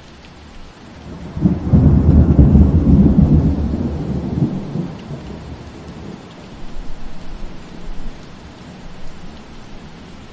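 Steady rain falling, with a loud low rumble of thunder that builds about a second and a half in and fades away over several seconds, followed by fainter rumbles.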